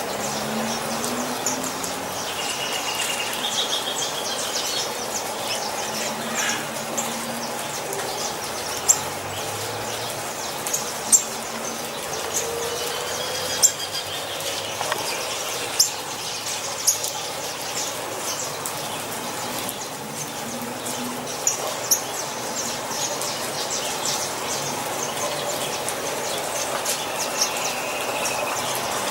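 Several small songbirds chirping and calling: many short, high chirps and a few brief trills, with several sharp clicks standing out above them.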